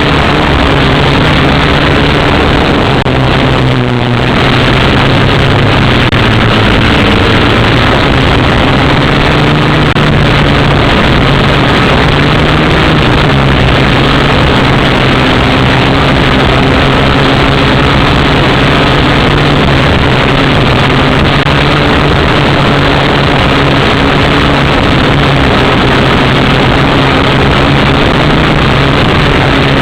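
Syma X8W quadcopter's four motors and propellers whirring steadily in flight, heard loud and close, with a brief dip in the whir about four seconds in.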